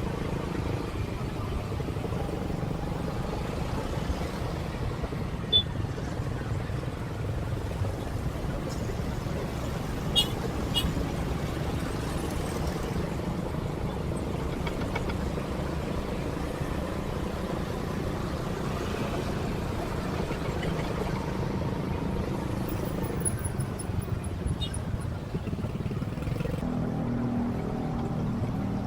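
Motorcycle engine running and city traffic noise heard from the rider's seat, a steady drone with a few short sharp clicks about six and ten seconds in.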